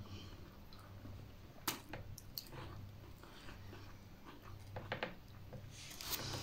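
Quiet chewing and biting sounds of a person eating a beef hamburger, with a few short sharp clicks and soft smacks over a low steady hum.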